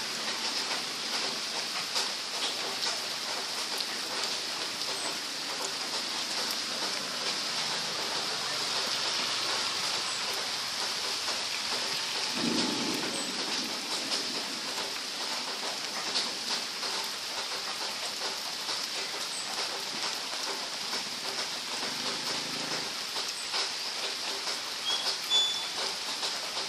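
Steady rain falling, an even hiss dotted with scattered individual drips, with a brief low swell of sound about twelve seconds in.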